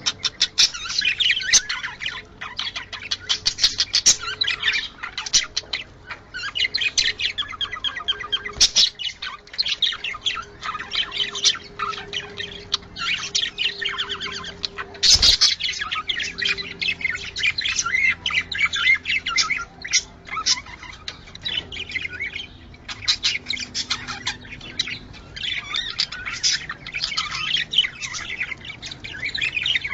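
A flock of budgerigars chattering and warbling, a dense, unbroken stream of fast chirps and squawks. There is one sharp click about halfway through.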